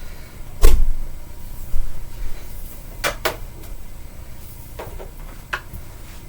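Several sharp clicks and knocks from handling a Hoover upright vacuum and its plastic attachments: a hard knock with a low thump about a second in, a pair of clicks around the middle, and two lighter ones near the end. The vacuum's motor is not running.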